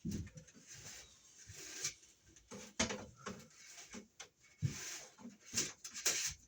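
Romex cable being worked by hand down through a wiremold raceway: irregular rustling and scraping with light knocks and clicks.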